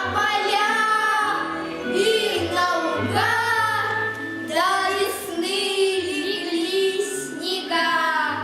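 Children singing a song with musical accompaniment: a sung melody in phrases over steady low notes.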